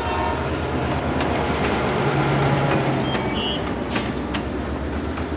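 Steady mechanical rumble of running machinery, with a low hum that comes in about two seconds in and a few sharp clicks near the end.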